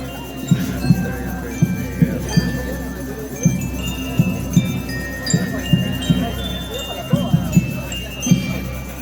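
A school rhythm band playing: bell lyres ring out a tune of short, high, chiming notes over steady low drum beats.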